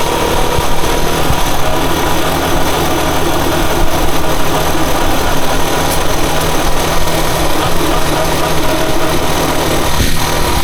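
Rusi Chariot 175 motorcycle engine running steadily under a loud, even rush of noise.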